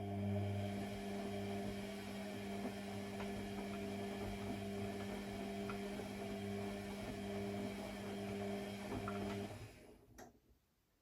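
A mains-powered electrical device hums steadily for about nine and a half seconds, then stops, followed by a single click.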